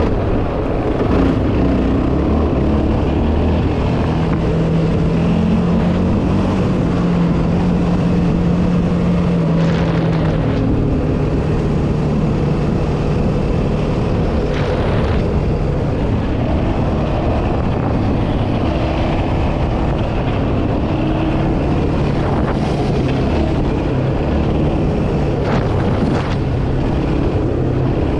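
Yamaha Raptor 700R quad's single-cylinder four-stroke engine running under way, its note shifting up and down with the throttle over a constant rumble.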